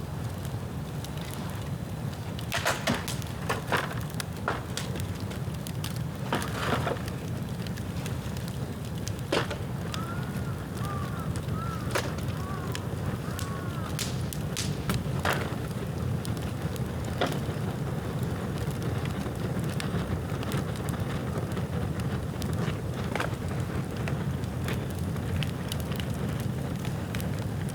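Dead bamboo burning in an open bonfire, crackling and popping at irregular intervals over a steady low rumble.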